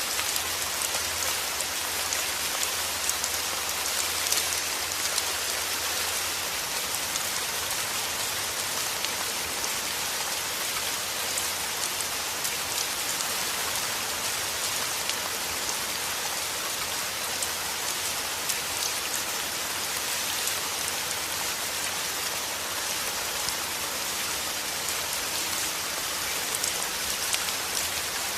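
Heavy rain falling steadily: a dense, even hiss with the taps of many individual drops.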